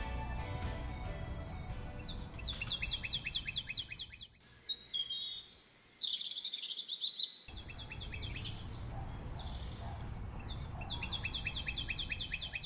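Birds singing: a fast, evenly repeated series of short chirps that breaks off midway while other birds give a few whistled calls, then picks up again near the end. Soft background music fades out in the first couple of seconds.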